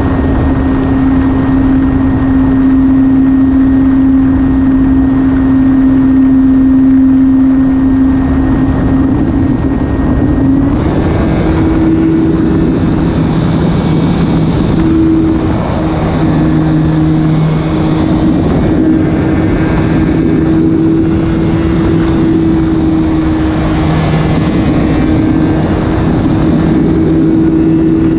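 Electric motor and propeller of an E-flite Carbon-Z Cub SS RC plane running at steady throttle, a steady hum that steps up in pitch about ten seconds in, over a constant rushing noise.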